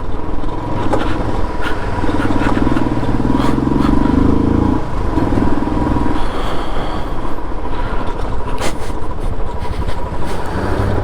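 Motorcycle engine running, its pitch rising for a few seconds about two seconds in and then dropping back.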